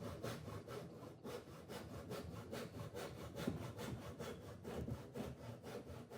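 Tenon saw cutting through a wooden upright in quick, even back-and-forth strokes, about four a second.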